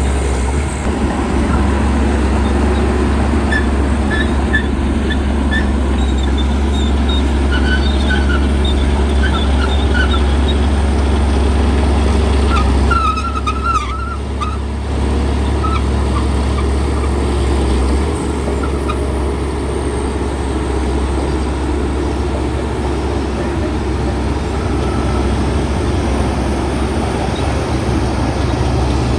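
Shantui bulldozer's diesel engine running steadily under load, a deep continuous drone, with a few short high squeaks in the first half.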